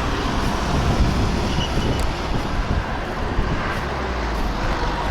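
Wind rumbling on the microphone over steady road traffic noise.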